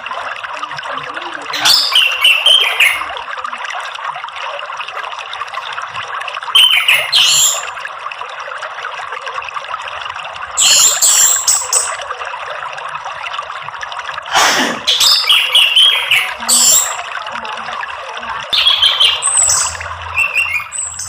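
Orange-headed thrush song in five short, chirpy phrases over a steady rush of water, played as a lure and therapy track for a caged anis merah.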